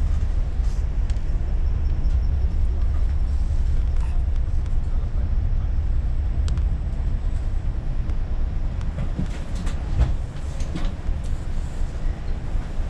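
Low steady rumble of a passenger train heard from inside the carriage as it runs into a station, with scattered clicks and knocks from the wheels and track and one sharper knock about ten seconds in.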